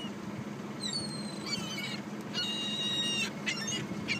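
Seagulls calling: a few short high-pitched cries, then one longer held call in the middle, followed by more short cries, over a steady low hum.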